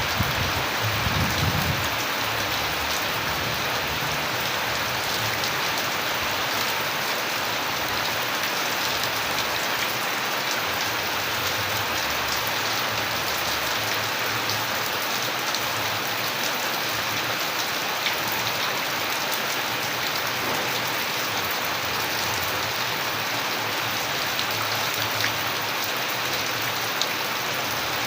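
Steady rain falling, a dense hiss with many individual drops ticking through it, and a brief low rumble about a second in.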